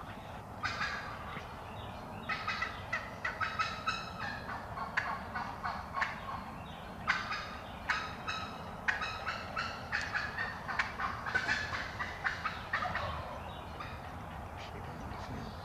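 Wild turkeys gobbling close by, in a long run of rattling calls that begins about a second in and dies away near the end.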